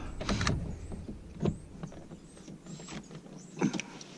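Window crank removal tool being worked in behind a truck door's window crank handle: scattered clicks and scrapes, the loudest about a second and a half in and near the end.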